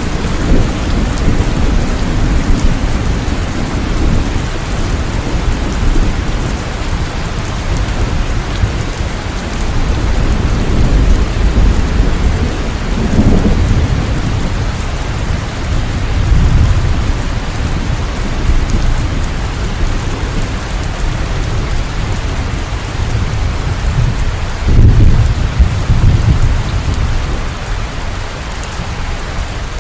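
Steady heavy rain, a dense even hiss, with low rumbles swelling under it now and then, the strongest about 25 seconds in.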